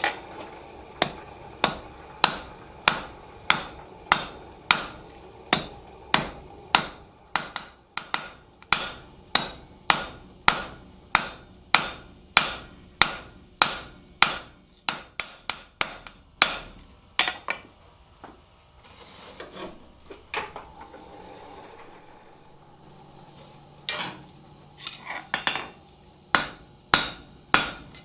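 Cross peen hammer striking a 3/8-inch steel bar on an anvil in a steady rhythm of about two blows a second, drawing out a taper. The blows stop for a few seconds about two-thirds through, then resume.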